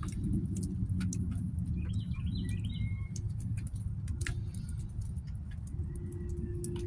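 A small bird singing one short phrase of quick chirping notes about two seconds in, over a steady low rumble and scattered sharp clicks.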